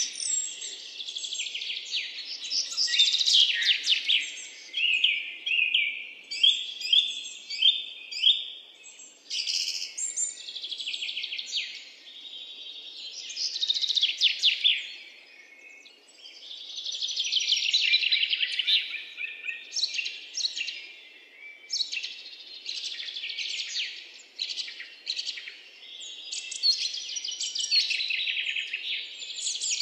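Birds singing: a continuous run of high chirps and fast trills, swelling and fading every few seconds.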